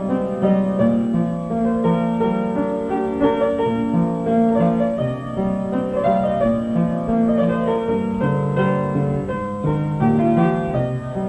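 Slow keyboard music with a piano-like tone: a melody of held notes over a moving bass line.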